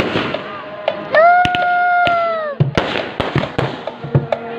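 Fireworks going off, with many sharp bangs and pops in quick, irregular succession. About a second in, a single clear whistling tone starts with a short upward slide, holds for about a second and a half, then drops away and stops.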